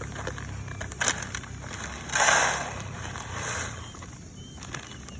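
Handling noises of bird-feeder craft materials: a sharp knock about a second in, then a short loud rustle a little after two seconds, and a fainter rustle a second later.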